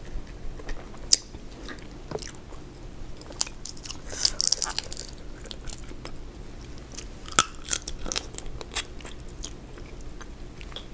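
A person eating a seafood boil close to the microphone: chewing and biting with scattered sharp clicks and cracks, the loudest about a second in and again about seven seconds in, and a run of crackly crunching around four seconds in.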